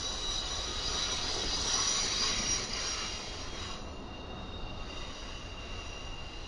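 Intermodal freight train rolling past, with steady high-pitched squealing tones over the rumble of the cars. The squeal peaks about two seconds in and mostly cuts off abruptly near four seconds, leaving one fainter high tone.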